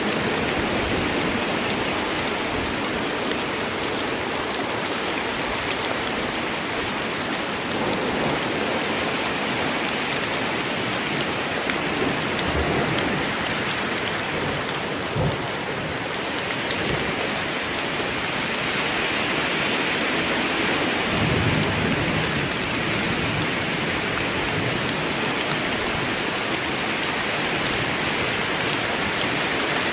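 Steady rain falling in a forest, an even hiss of drops with a couple of short low thumps about halfway through.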